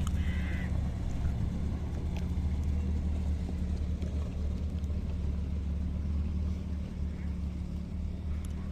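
Steady low engine-like rumble, with a brief higher sound in the first half second.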